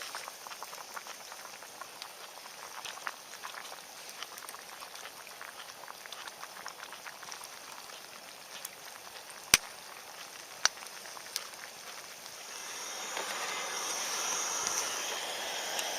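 Wood campfire crackling with a steady run of small snaps and two sharp pops, about nine and a half and ten and a half seconds in. Near the end a louder rushing hiss comes in over it.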